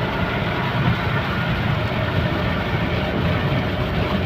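Heavy rain falling steadily, a dense, even rush of noise with a low rumble and no let-up.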